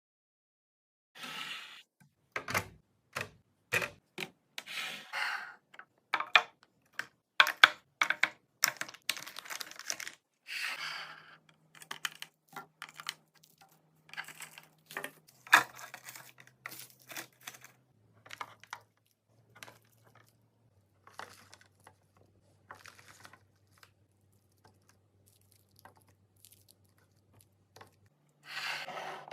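Food packaging and containers being handled: plastic crinkling and tearing, with irregular clicks and knocks as items are set down, busiest in the first half and thinning out later.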